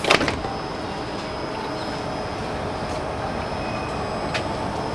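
Steady hum of a KTX high-speed train standing at the platform, heard from the vestibule by the open door, with a faint high whine running through it. A loud knock right at the start and two light clicks later on.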